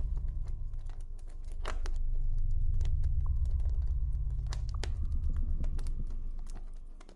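Campfire crackling with irregular sharp pops and snaps, over a deep low ambient drone that swells and fades, dropping away near the end.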